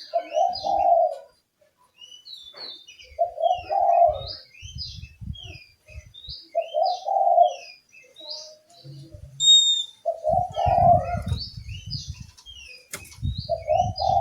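A dove coos a short phrase about every three seconds, five times, while a songbird, most likely the oriental magpie-robin (kacer), gives quick high downward chirps throughout, with one clear, steady whistle about halfway through.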